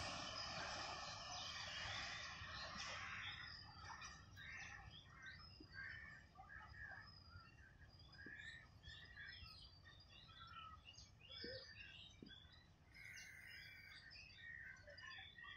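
A metre-gauge oil tanker train's wagons rolling away, their rumble fading out within the first few seconds. Then faint birds chirping in short, scattered calls.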